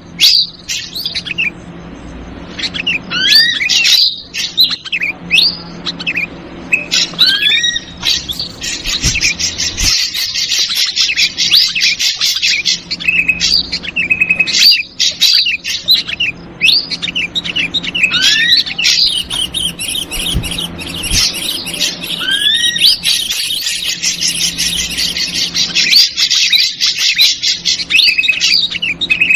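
Bird-lure recording of ashy drongo and yellow-vented bulbul calls: short rising whistled notes, with long stretches of rapid, dense chattering.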